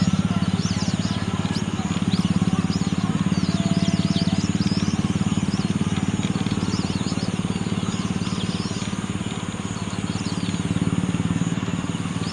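A flock of birds chirping and calling together, many short high calls overlapping throughout, over a steady low hum.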